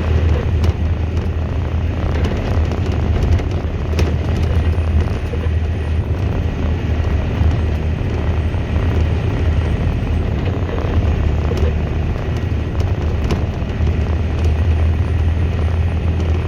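Volvo A25D articulated dump truck's diesel engine running steadily with a deep drone while the truck drives unloaded, with a few sharp knocks and rattles from the bumpy ride.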